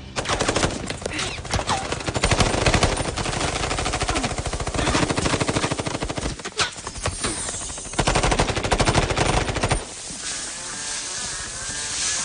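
Rapid automatic gunfire in a film soundtrack: a dense, sustained volley that breaks off about ten seconds in, leaving the musical score.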